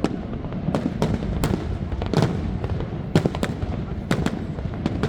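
Fireworks bursting: a rapid, irregular run of sharp bangs, several coming in quick pairs, over a steady low rumble.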